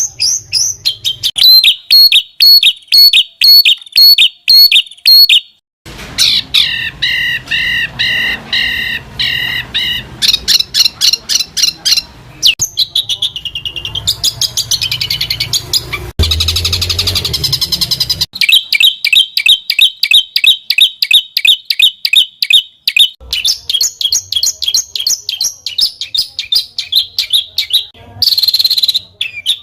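Songbird song for masteran: fast runs of repeated high chirps and trills from a string of different recordings, the song changing abruptly about half a dozen times.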